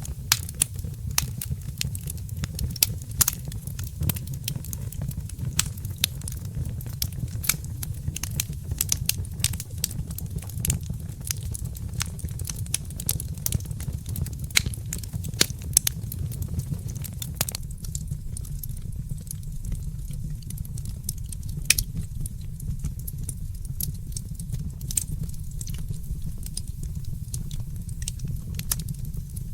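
Wood fire in a fireplace crackling, with frequent sharp irregular pops over a steady low rumble; the pops thin out a little past halfway.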